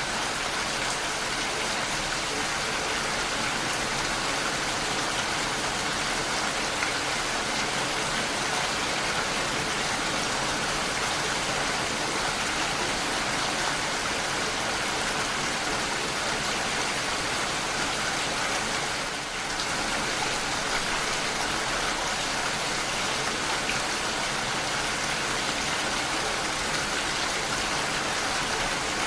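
Steady rain, an even hiss of falling drops, with a brief dip in loudness about two-thirds of the way through.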